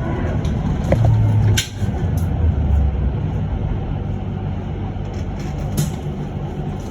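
Cabin noise inside an electric bus: a steady low rumble with a low hum that cuts off sharply about a second and a half in, marked by a click, and another click near the end.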